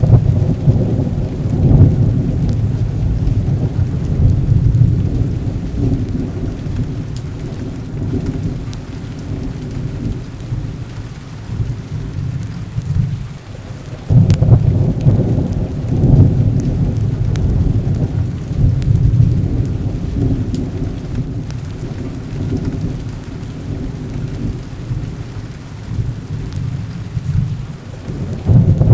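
Heavy rain with rolling thunder. The low rumble of the thunder swells at the start, again about halfway through and near the end, over a steady hiss of rain.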